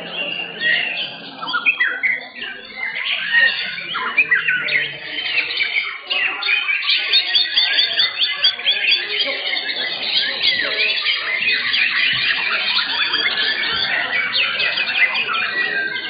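Many white-rumped shamas (murai batu) singing at once, a dense, unbroken tangle of rapid overlapping chirps and whistles that grows busier about halfway through.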